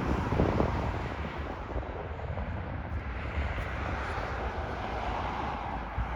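Metra commuter train rumbling past, with a few low knocks in the first second and wind buffeting the microphone.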